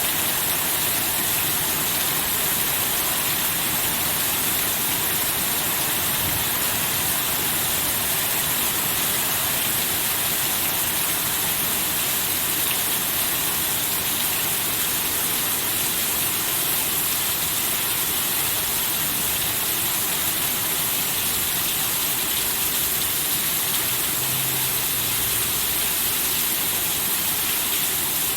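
Steady heavy rain falling, an even hiss with no break or change.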